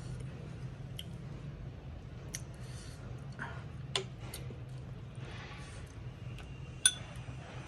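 Tableware clicking and clinking at a meal: a few separate sharp clicks of utensils against bowls, the loudest near the end, over a steady low hum.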